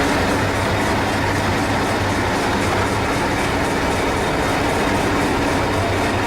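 Miniature railway train running on the track: a steady low engine hum with continuous rail noise.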